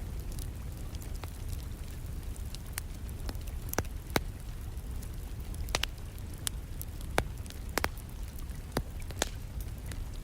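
Wood fire crackling, with irregular sharp pops and snaps over a steady low rumble, and steady rain in the background.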